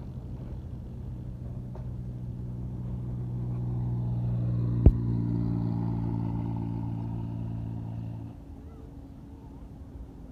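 Truck engine running steadily, growing louder toward the middle, with one sharp click about five seconds in; the engine sound cuts off suddenly about eight seconds in.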